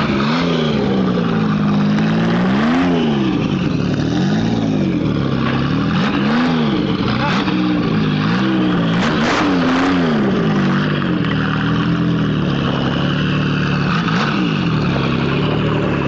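Quad-turbo V12 engine of a scratch-built Jaguar XK120 race car being revved again and again, its pitch rising and falling about every second, then running steadier near the end.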